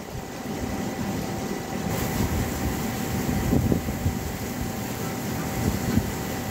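Heavy rain pouring steadily, a dense even hiss, with a low rumble swelling briefly about halfway through.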